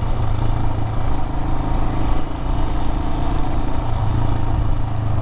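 Adventure motorcycle engine running at a steady riding pace on a loose gravel road, its note shifting slightly a couple of times, over constant wind and road noise.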